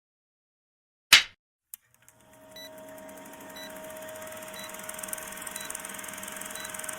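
A single sharp bang about a second in, then a faint click. After that a background hum swells up, with a short high tick once a second.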